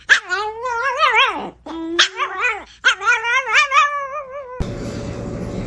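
A dog vocalizing in long, wavering, pitched yowls, howl-like 'talking' in several phrases whose pitch wobbles up and down. About four and a half seconds in it cuts off abruptly into a steady rumbling noise.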